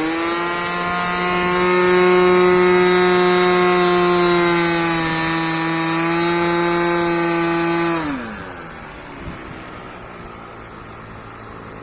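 OS 55 two-stroke nitro glow engine of an RC airplane running at high throttle with a steady high-pitched buzz, wavering slightly. About eight seconds in it is throttled back: the pitch falls quickly and it settles to a quieter idle.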